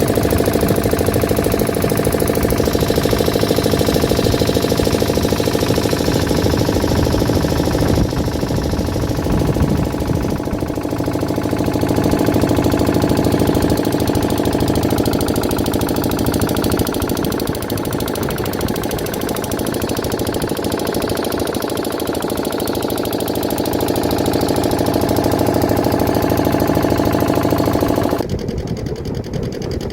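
An engine running steadily with a fast knocking beat. The sound changes abruptly about 8 seconds in, and again near the end, where it drops a little and the higher part fades.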